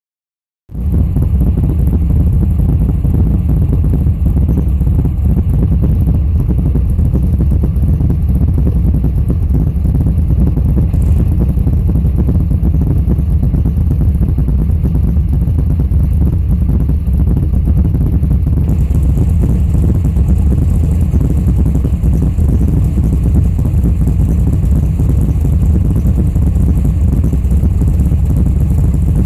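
Vehicle exhaust fitted with Dynomax mufflers, running at a steady idle with a deep, even drone and no revving. It starts under a second in.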